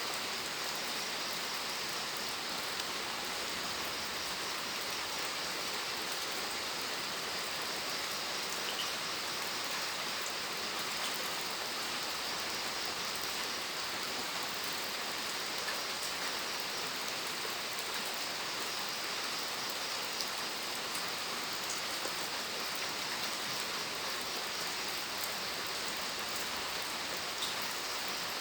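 Steady rain falling, an even hiss with now and then a single drop ticking a little louder.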